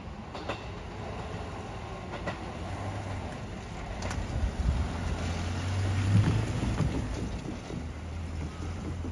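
415 series 1500 subseries electric multiple unit train running past: a low rumble of the cars with clacks of wheels over rail joints, growing to its loudest about six seconds in, then easing off.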